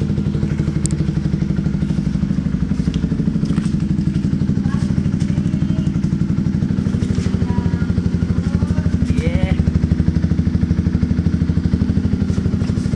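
Honda CBR150R single-cylinder motorcycle engine idling steadily through an aftermarket IMS Chuenk slip-on muffler, with a rapid, even exhaust pulse.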